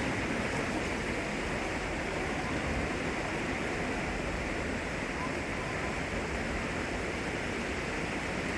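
A river swollen with typhoon rain, fast floodwater rushing in a steady, even noise with no breaks.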